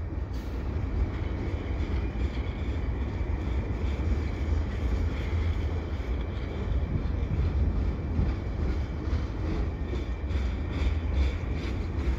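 Budd-built stainless steel passenger coaches rolling steadily across a railway bridge, a continuous sound of wheels on rail.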